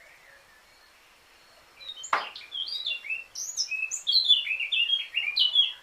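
Eurasian blackcap singing one song phrase: about two seconds in, a sharp downward-sweeping note, then a quick run of varied whistled notes that stops abruptly near the end.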